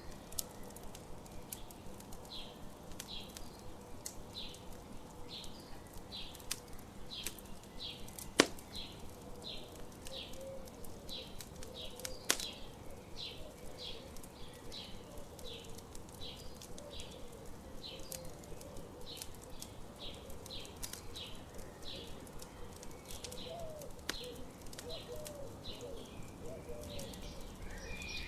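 Campfire crackling, with a few sharp pops, two of them louder, about a third of the way through. Under it runs a short high chirp, repeating about twice a second.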